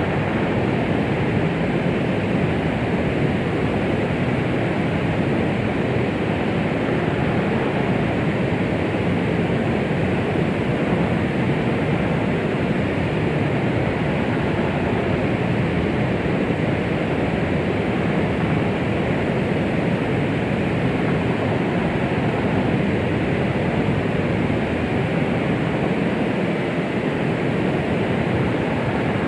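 Steady, muffled hiss of a womb-sound white-noise track, heavier in the low range, with no beat or change.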